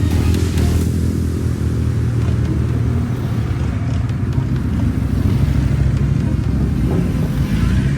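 Motorcycle engines running at a large bike gathering, a steady, loud, low engine sound without clear revving.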